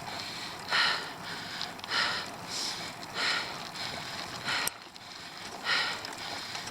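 A cyclist's heavy, laboured breathing on a steep climb, a hard exhale about once a second, with a sharp click about two-thirds of the way through.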